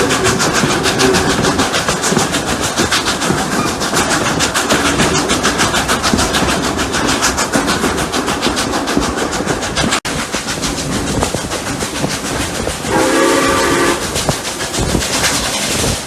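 Two steam locomotives working hard uphill, their exhaust beats coming as a rapid, continuous chuff. A steam whistle sounds once, for about a second, a little before the end.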